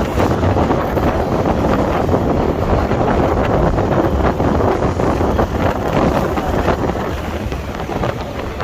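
Wind rushing over the microphone on a moving motorcycle, with the bike's engine and road noise underneath, easing slightly near the end.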